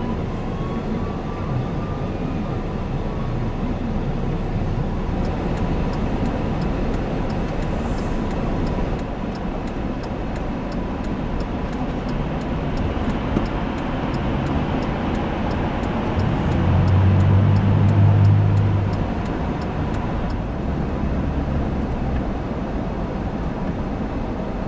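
Steady rumble of interstate highway traffic. A heavy engine's low drone swells louder for a few seconds partway through.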